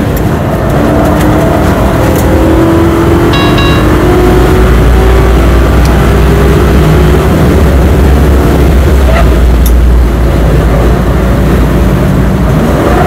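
Lincoln Mark VIII race car's V8, heard from inside the cabin at full throttle, revving up as the car accelerates out of a corner. About ten seconds in, an upshift drops the revs, and they climb again.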